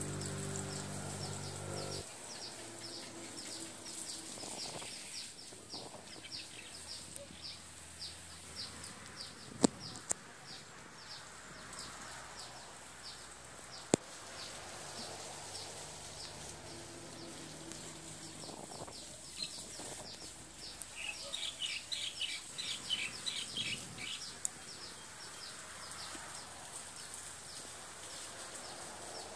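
Small birds chirping in a steady series of short high calls, with a quick run of rapid chirps about two-thirds of the way through. An engine hums for the first two seconds, and a few sharp clicks sound near the middle.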